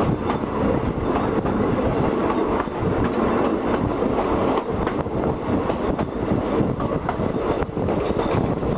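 Passenger train running on the rails, heard from aboard: a steady rumble of the wheels with rapid clattering clicks over the track.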